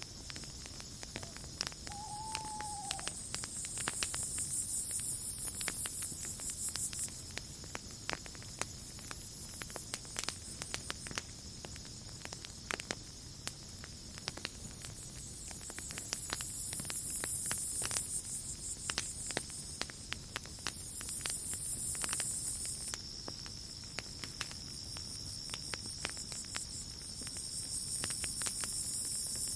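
Campfire crackling with frequent sharp pops over a chorus of night insects: a steady high trill and a higher chirping chorus that swells and fades in waves. A single short whistled call about two seconds in.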